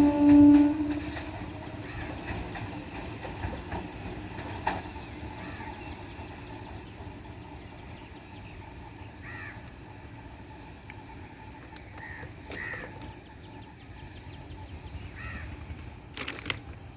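A loud steady tone from the EMU local train ends about a second in. Crows then caw a few times over a faint high chirp that repeats about three times a second.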